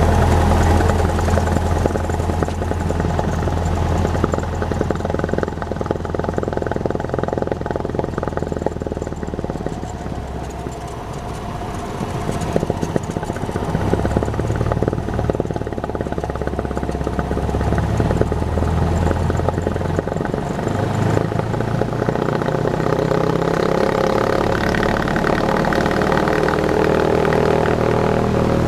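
Cessna 172's piston engine and propeller running steadily, easing off slightly about ten seconds in and then building back up.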